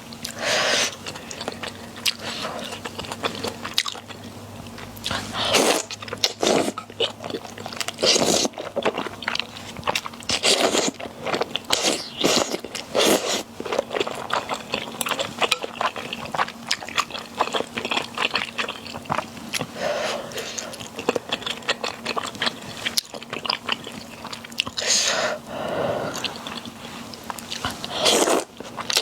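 A person eating close to the microphone: irregular biting and chewing with many small mouth clicks, louder in several short bursts. A faint steady low hum sits underneath.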